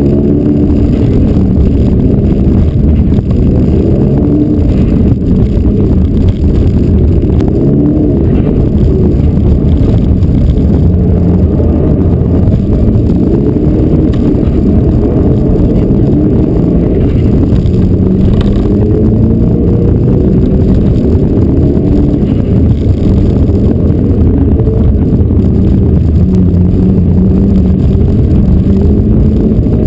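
Mitsubishi Lancer Evolution rally car's turbocharged four-cylinder engine, loud from inside the cabin, revving up and falling back again and again as the car is driven hard through the gears.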